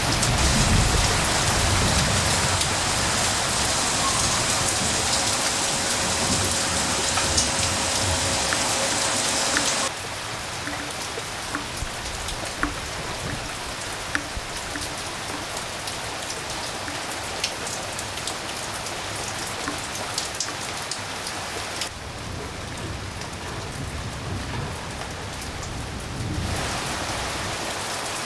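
Rain falling steadily, with a low thunder rumble dying away at the start. The rain is heavier for the first ten seconds, then abruptly lighter, with individual drops ticking, and it changes again a little past twenty seconds.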